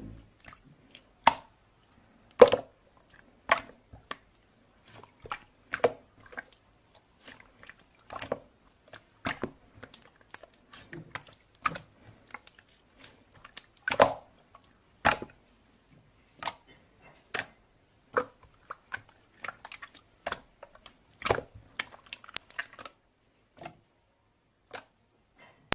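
Blue clear slime being squeezed and pressed by hand, giving irregular sticky pops and clicks, roughly one or two a second.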